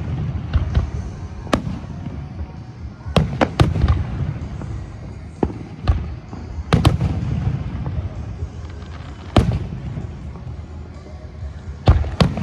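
Aerial fireworks going off: about a dozen sharp bangs at uneven intervals, some in quick clusters of two or three, over a continuous low rumble of bursts and echoes.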